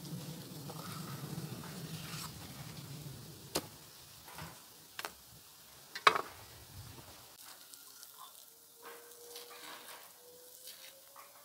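Pork sizzling as it fries in a pan or pot of fat, with a few sharp knocks of a utensil against the pan; the frying noise dies down after about seven seconds.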